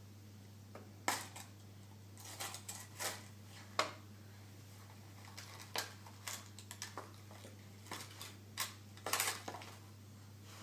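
Plastic toy vehicles and a toy car wash play set clicking and knocking together as they are handled, in about a dozen irregular taps and clatters.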